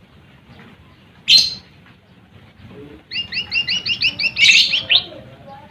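Lesser green leafbird (cucak ijo mini) singing: one sharp, loud note, then a rapid series of about a dozen repeated chirps lasting a couple of seconds.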